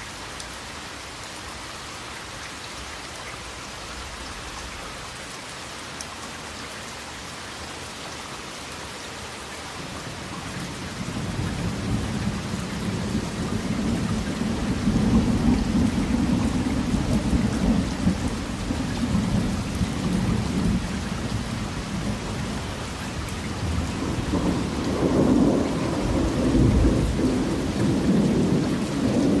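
Steady rain falling, with a long rumble of thunder that builds about a third of the way in and swells again near the end.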